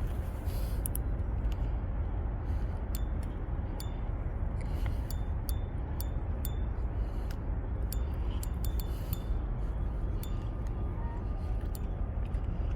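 Steady low rumble with a scatter of short, sharp clicks and clinks at irregular intervals, most of them in the first three quarters.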